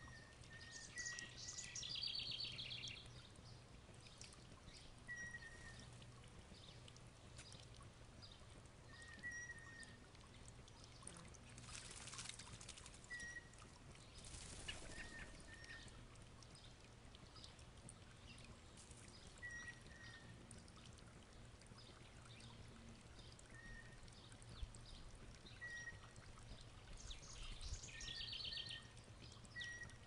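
Faint backyard birdsong: a short chirp repeating every few seconds, with a quick high trill near the start and again near the end, over a steady low hum. Two brief rushing noises come in the middle.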